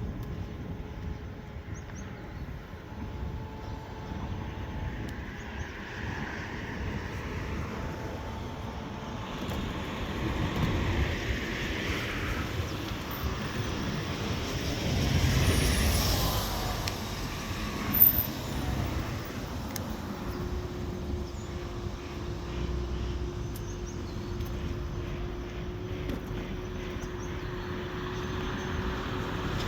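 Road traffic on a busy road: a steady wash of passing vehicles, swelling as cars go by and loudest about halfway through, with a single sharp knock shortly after.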